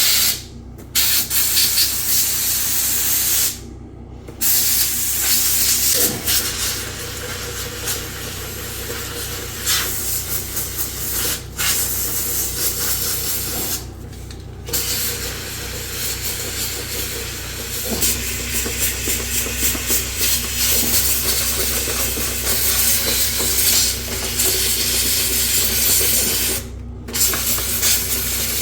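A hissing spray jet used to clean bidet parts, running steadily with a few short pauses and a change of pitch about six seconds in and again near eighteen seconds.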